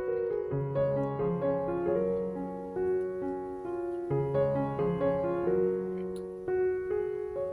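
Background piano music: a gentle melody of plucked-sounding notes at a steady, unhurried pace.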